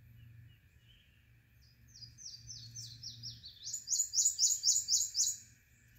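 A songbird singing a run of quick, high downslurred notes that speed up into a faster, louder trill in the second half, then stops near the end.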